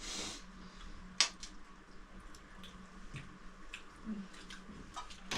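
Quiet room with scattered small clicks and taps over a faint steady hum, one sharper click about a second in.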